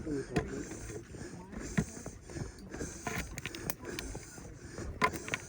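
Footsteps on a dirt trail, with irregular sharp taps and scuffs from a group of people walking.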